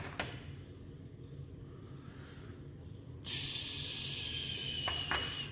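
A click or two from the washing machine, then about three seconds in a steady hiss with a thin whistling tone starts up, with a couple of clicks near the end. The machine has stopped mid-cycle and is wet and steamy inside.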